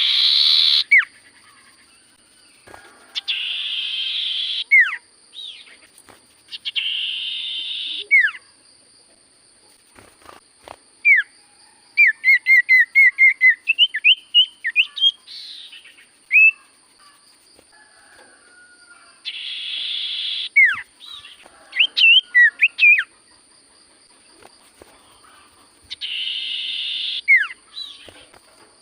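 Common iora (cipoh) singing: sharp slurred whistles and quick chattering runs of repeated notes, broken by harsh buzzy rasps of about a second each. A faint steady high whine runs underneath.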